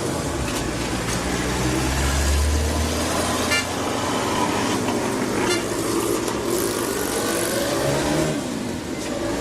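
Steady motor-vehicle traffic noise with a short horn toot about three and a half seconds in.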